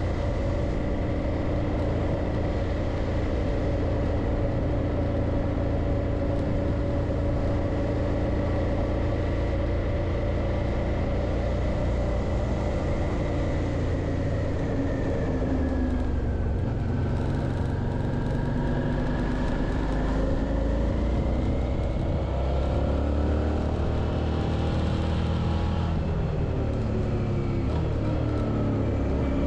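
Suzuki V-Strom 650's V-twin engine running while riding. Its note falls about halfway through, then climbs again in rising sweeps through the second half as the bike speeds up.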